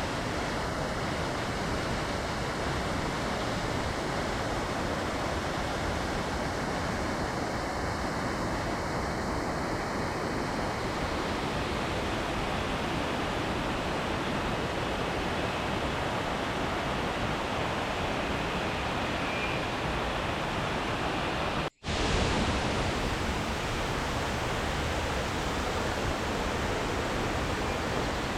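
Waterfall cascading in a steady, even rush of water. About three-quarters of the way through, it cuts out for a split second and comes back slightly louder.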